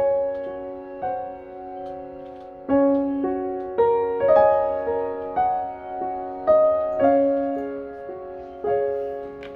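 Slow, gentle solo piano music: notes and chords struck about once a second, each left to ring and fade.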